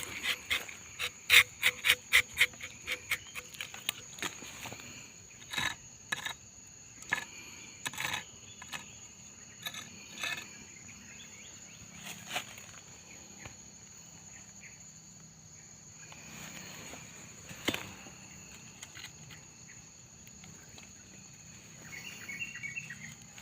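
Insects calling steadily as two unbroken high-pitched tones. Over them comes a fast run of short clicks or scrapes, about four or five a second, for the first few seconds, then scattered single knocks and clicks.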